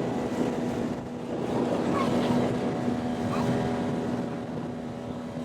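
Small boat's outboard motor running at a steady speed, with water and wind noise around it.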